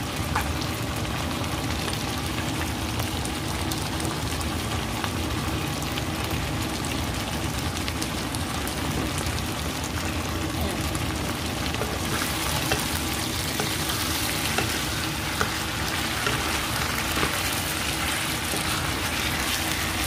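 Chicken pieces frying in hot oil in a pan, a steady crackling sizzle as the chicken browns, growing a little louder and brighter about twelve seconds in.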